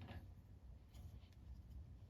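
Near silence with a low room hum: a few faint light clicks and scrapes of hand tools on the pallet jack's pump parts.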